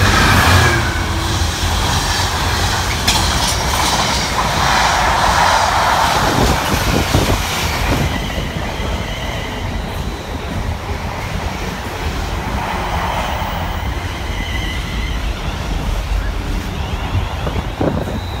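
Freightliner Class 66 diesel locomotive running past at speed, loudest in the first second, followed by the long steady rumble and clatter of container wagons over the rails.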